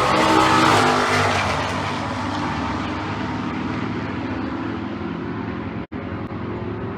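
Drag-racing cars' engines at full throttle making a quarter-mile pass, loud at first and then fading as the cars pull away down the track. The sound cuts out for an instant near the end.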